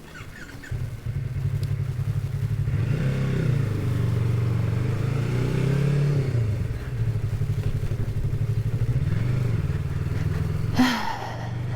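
Motorcycle engine starting about a second in, then running as the bike pulls away, its pitch rising and falling as it accelerates before settling into steadier running.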